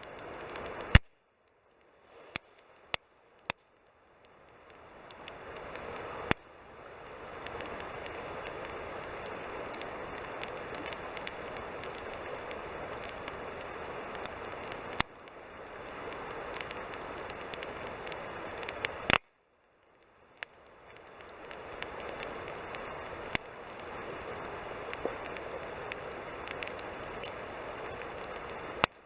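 Wood campfire burning: a steady hiss of flames with sharp crackles and pops scattered throughout. Twice, right after a loud pop (about a second in and again about two-thirds of the way through), the sound drops almost to silence and slowly swells back.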